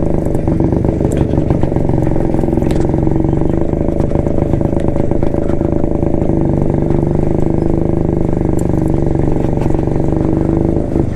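1972 Jawa's two-stroke single-cylinder engine running steadily under way, its exhaust beating in rapid even pulses.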